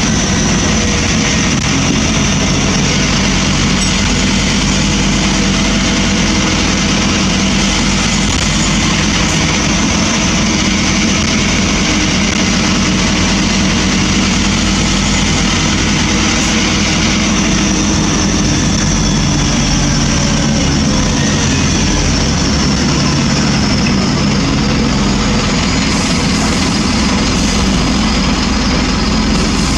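Scania N230UB bus's five-cylinder diesel engine running steadily, heard from on board, with a change in the engine and road noise a little over halfway through.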